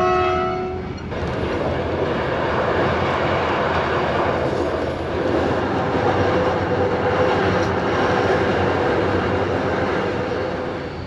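Passenger train running on the rails: a steady, loud rumbling and rushing noise. A held tone stops about a second in, just before the rumble begins.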